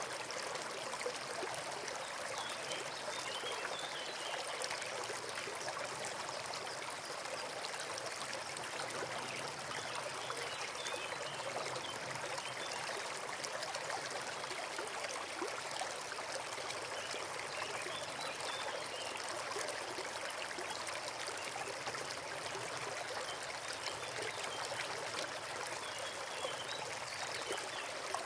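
Forest stream running steadily, a constant splashing and trickling of water.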